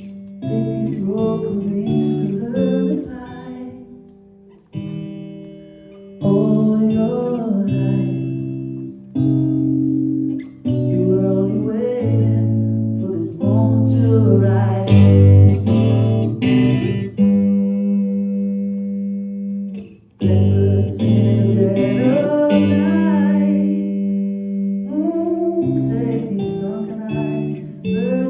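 Guitar playing with a singing voice, picked phrases over a held low note and changing bass notes, pausing briefly a few times.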